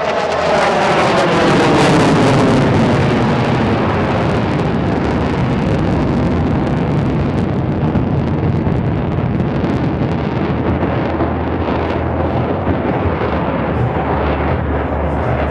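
F-35 fighter jet making a pass: its engine roar is loudest about two seconds in, sweeping down in pitch as it goes by, then continues as a steady jet roar.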